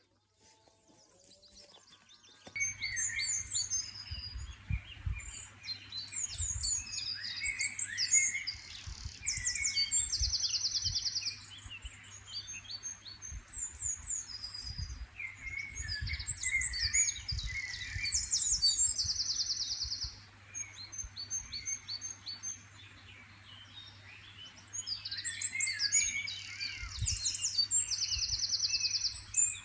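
Dawn chorus of several wild songbirds singing at once, with overlapping phrases and fast, even trills. It starts about two and a half seconds in, over a faint low steady hum.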